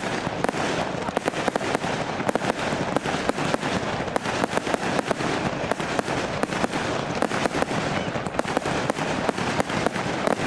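Display fireworks going off in rapid succession: a dense, continuous crackle of many sharp bangs a second with no pause.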